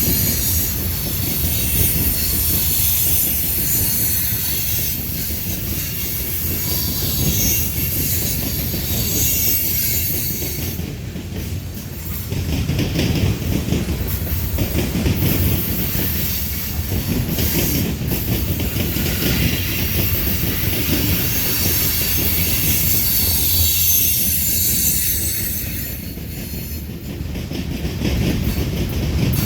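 Freight cars of a manifest train rolling past: a steady rumble of wheels on rail, with high-pitched wheel squeal over it.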